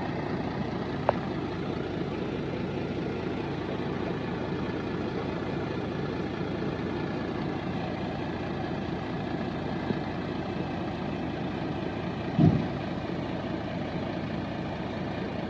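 Heavy construction machine's diesel engine idling steadily, with a short, louder thump near the end.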